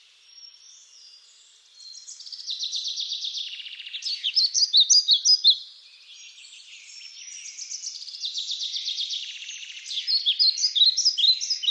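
Songbird singing two long songs, each a fast, even trill that runs into a louder string of sharp, rapid notes. The first song starts about two seconds in and the second about seven and a half seconds in.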